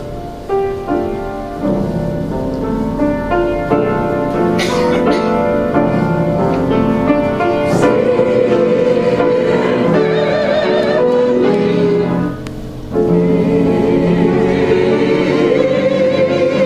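Choir singing a choral passage in rehearsal, with a short break about twelve seconds in before the singing resumes.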